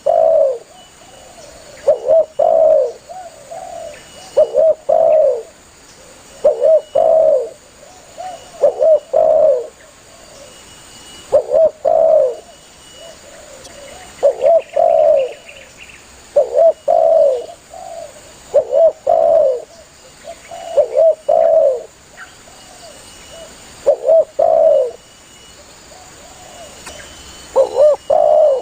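Spotted dove (tekukur) cooing: a short phrase of a few low coos, repeated about every two to three seconds, a dozen times.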